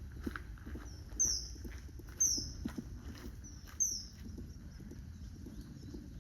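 Common kingfisher calling: three loud, short, shrill whistles, each falling in pitch, with fainter calls between them. A steady low background hum runs underneath.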